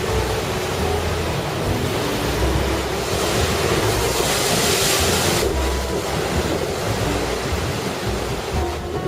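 Big typhoon-driven ocean waves breaking and surging, with wind buffeting the microphone. A louder hissing wash of surf comes about three seconds in and stops sharply around five and a half seconds.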